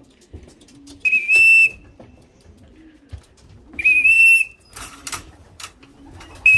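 Short blasts on a whistle, each a steady high note about half a second long, blown to call a returning racing pigeon down into the loft. There are two blasts about three seconds apart, and a third begins at the very end.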